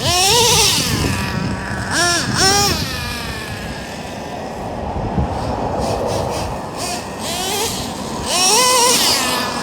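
Traxxas Revo nitro monster truck's 3.3 engine revving as it is driven, its pitch rising and falling in three louder bursts: at the start, about two seconds in, and near the end, with steadier running between.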